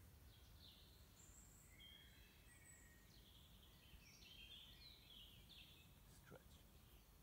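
Faint songbirds chirping and trilling, several short calls overlapping, over a low steady background rumble.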